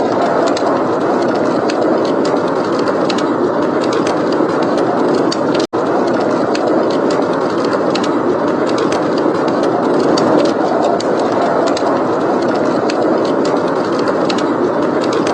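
Blizzard wind blowing steadily with a wood fire crackling over it in frequent small pops. The whole sound cuts out for an instant about six seconds in.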